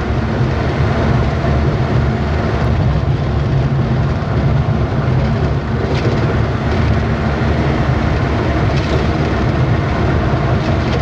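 A truck's engine running steadily with road and tyre noise as it drives along, and a couple of faint knocks about six and nine seconds in.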